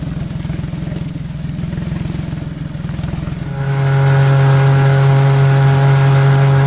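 Jet boat's outboard engine running, pulsing at first, then louder and holding a steady high speed from about three and a half seconds in.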